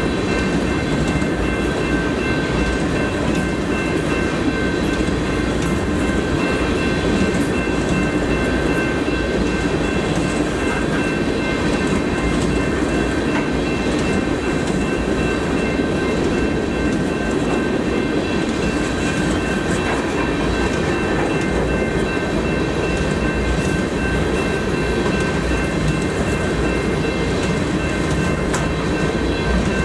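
Freight train flatcars rolling steadily past, a continuous rumble with scattered wheel clacks. Steady high ringing tones run over it.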